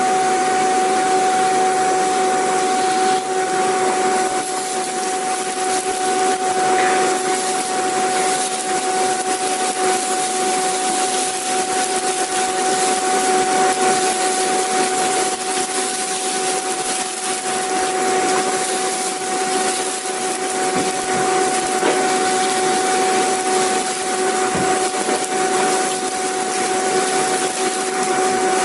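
Vacuum cleaner running continuously: a steady rush of air with a constant motor whine, one clear tone and a lower one beneath it.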